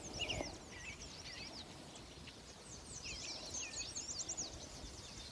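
Several small songbirds chirping and singing, with many quick high chirps overlapping one another, over faint outdoor background noise.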